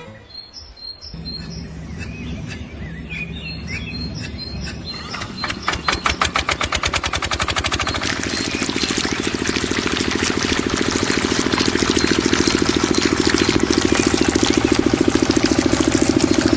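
Birds chirping, then about five seconds in a small water-pump engine starts with a few slow chugs that quicken into a steady, fast running beat.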